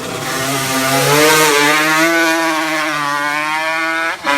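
Racing motorcycle engine at high revs, accelerating hard uphill, with a brief cut about four seconds in at a gear change.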